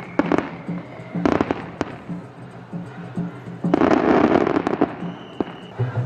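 Fireworks going off: several sharp bangs early on, then a dense burst of crackling about four seconds in, over steadily rhythmic festival music.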